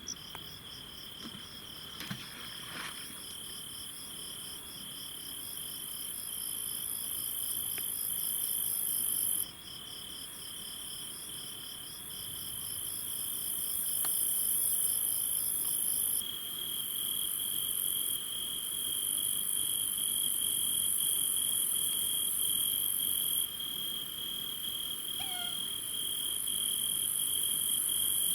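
Night chorus of crickets and other insects: several overlapping high-pitched songs, one a fast rhythmic chirping that stops about halfway through, over a steady high trill.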